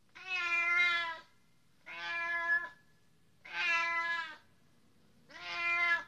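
A kitten meowing four times, each meow about a second long and steady in pitch, with short pauses between.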